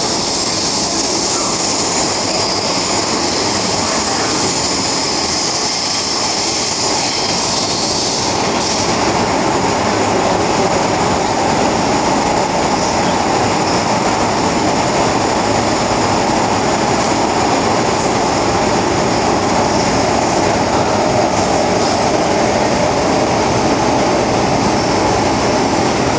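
MTR M-Train metro train running between stations, heard on board: a steady rumble and hiss of wheels on rail, growing louder about eight or nine seconds in, with some wheel squeal and rail-joint clatter.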